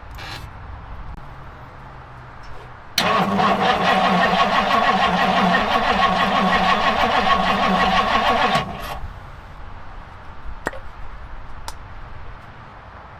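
Starter motor cranking the 1962 Ford Galaxie's V8 for about five and a half seconds with a fast, even pulse, then stopping suddenly without the engine catching.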